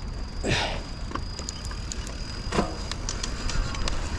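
Mountain bike rolling over a rutted dirt trail: tyres rumbling and crunching, with small rattling clicks and two brief scraping surges, about half a second and two and a half seconds in. Wind noise on the microphone.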